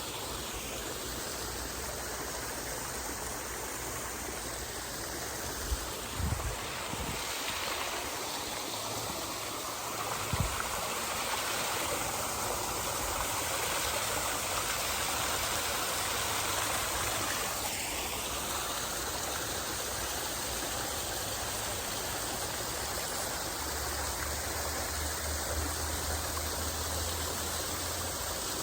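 Stream water running steadily, an even rushing wash, with two brief low bumps about six and ten seconds in.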